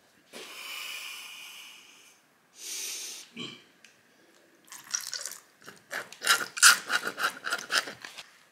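Competition tanning colour being applied to skin: a hiss of about two seconds and then a shorter one, like spray bursts, followed from about five seconds in by a fast run of rubbing strokes, about four to five a second.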